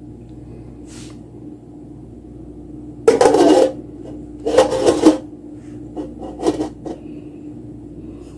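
A kitchen utensil scraping against cookware in three short bursts, the first a little after three seconds in and the loudest, over a steady low hum.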